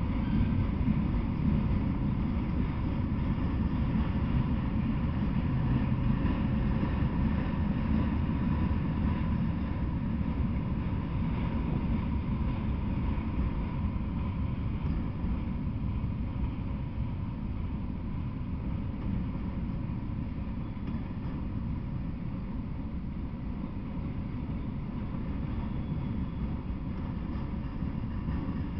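Freight train of autorack cars rolling past, a steady low rumble of steel wheels on rails that eases slightly in loudness partway through.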